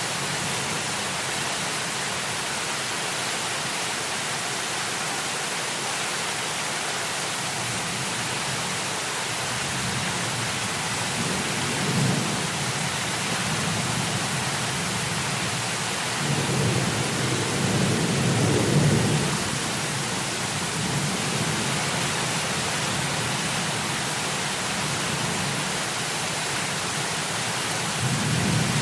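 Heavy rain falling in a steady hiss, with low rolls of thunder: one about twelve seconds in, a longer one a few seconds later, and another starting near the end.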